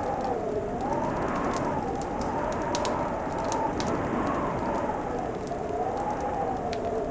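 Fireplace fire crackling, with scattered sharp pops over a steady hiss. Underneath runs a constant whistling tone that slowly rises and falls in pitch, like wind howling.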